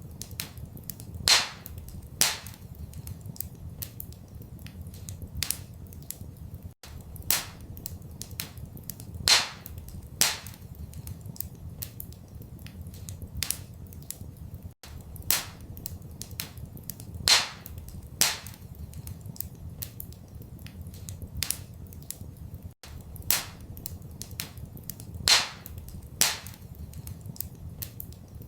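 Wood fire crackling in a fireplace: sharp pops and snaps, a few loud ones every second or two, over a steady low rumble. The same run of pops repeats about every eight seconds, as a loop.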